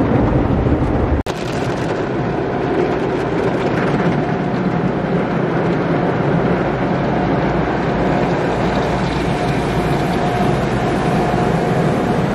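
Automatic car wash running over a car: a steady rush of water spray and machinery, with a faint steady whine. The sound drops out for an instant about a second in, then carries on unchanged.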